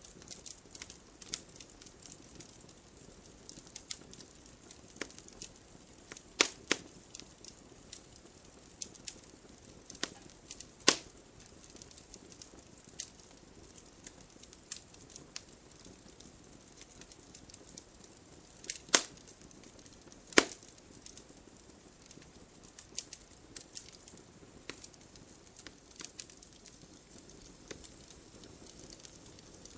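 Wood fire crackling: irregular sharp pops and snaps over a soft hiss, with a few louder pops scattered through.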